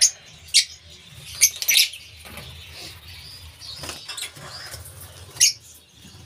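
Lovebirds chirping: a handful of short, sharp, high-pitched chirps and squeaks, spaced irregularly, two of them close together about a second and a half in.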